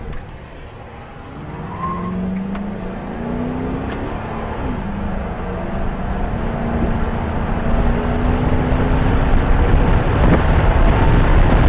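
Patrol car's engine accelerating, heard from inside the car: its pitch climbs in short rises through gear changes, then holds steady while road and wind noise grows louder as speed builds.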